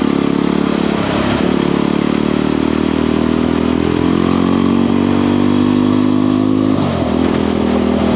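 Motorcycle engine and exhaust running steadily while riding, its note shifting briefly about a second in and again near the end as the throttle changes.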